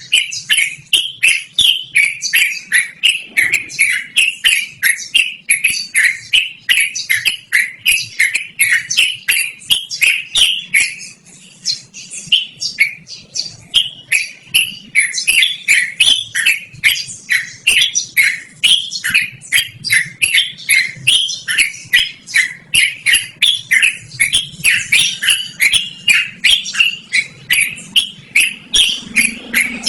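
Yellow-vented bulbul (trucukan) singing a long, continuous run of rapid, loud chirping notes, about three to four a second, with a short pause about eleven seconds in.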